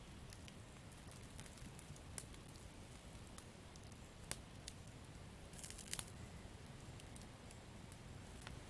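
Campfire crackling: sparse sharp pops and snaps from burning wood, with a small flurry of them about six seconds in, over a faint low steady rumble.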